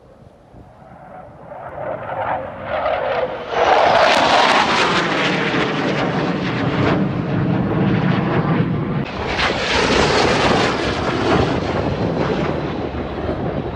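Thunderbirds F-16 fighter jet flying past with a loud roar. It builds over the first few seconds, is loudest about four seconds in, and swells again about nine seconds in.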